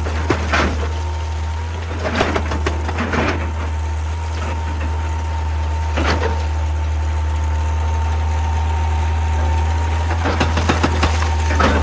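Excavator's diesel engine running steadily with a thin steady whine above it, broken by several bursts of clattering knocks of rock and steel, the loudest about 2 to 3 seconds in, at 6 seconds and near the end.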